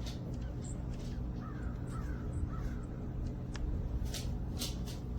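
A crow cawing three times in quick succession over a steady low hum, with a few sharp clicks near the end.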